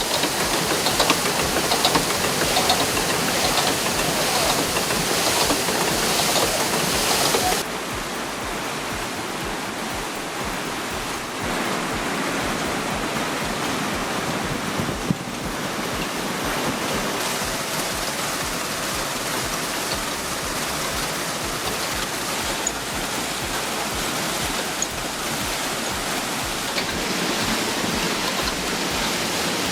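Steady rush of flowing water from a stream or falls. About eight seconds in it drops abruptly to a slightly quieter, duller rush.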